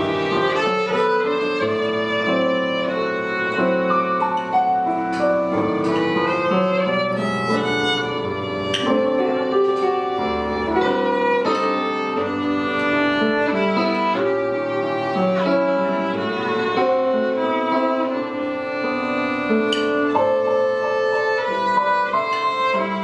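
Violin playing a slow, held melody over accompaniment, its notes wavering with vibrato.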